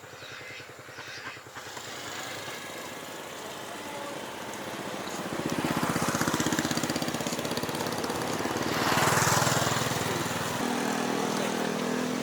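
A small engine running with a fast even firing beat, growing louder about five seconds in and loudest near nine seconds.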